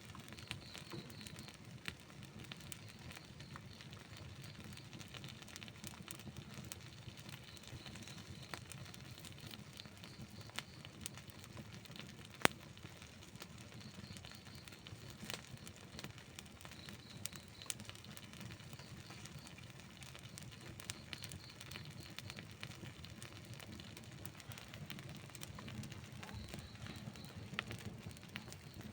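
Wood campfire burning, crackling and popping at irregular moments, with one sharper pop about twelve seconds in.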